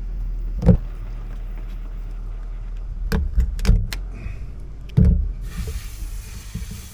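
Wind rumbling on the microphone, with several sharp knocks and thumps. A steady hiss comes in about five and a half seconds in.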